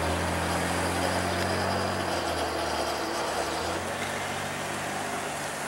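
A road vehicle's engine idling with a steady low hum, strongest for about the first two seconds and then weaker.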